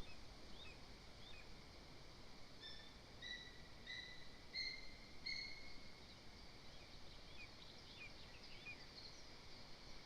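Faint forest birdsong: a bird gives a run of five clear whistled notes, each a little longer than the last, a few seconds in. Short chirps from other birds are scattered throughout.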